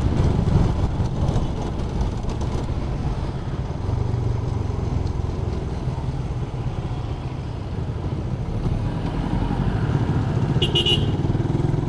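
Suzuki Raider 150 carburetted single-cylinder four-stroke engine running as the motorcycle is ridden, its note shifting with the throttle a few times.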